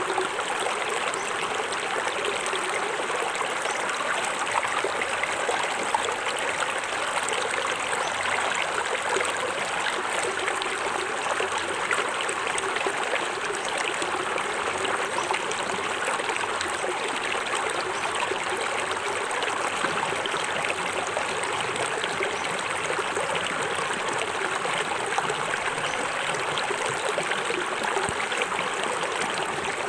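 Small forest waterfall splashing and trickling into a stream, a steady rush of water with small splashes throughout.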